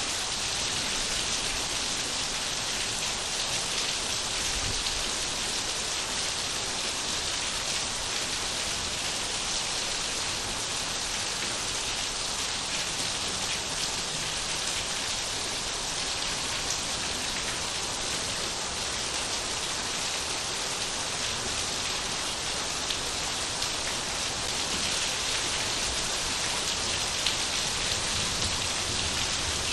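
Steady rain falling, a constant hiss of drops with faint individual drop ticks.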